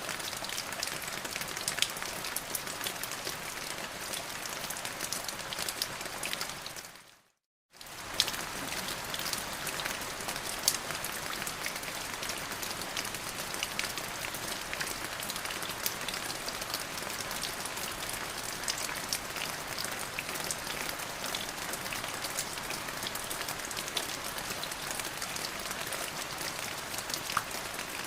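Steady rain falling on a hard surface, with many separate drop hits over the even rush. About seven seconds in it fades out to a moment of silence and then comes straight back.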